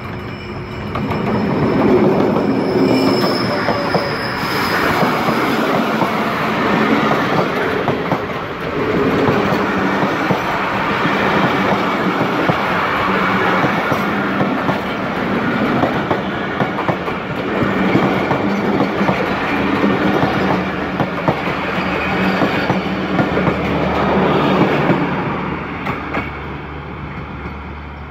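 Diesel-hauled passenger train passing at close range. The locomotive's engine drone swells in about a second or two in, then the coaches go by with a long run of wheels clattering over the rail joints and rushing noise. It fades somewhat near the end.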